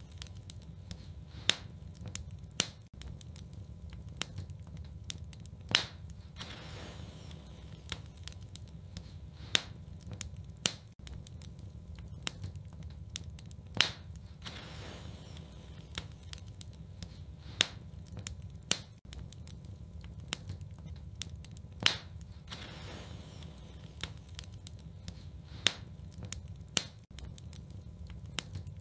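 Wood fire burning in a fireplace: a steady low rumble of flames with frequent crackles and pops, and a sharper crack about every four seconds.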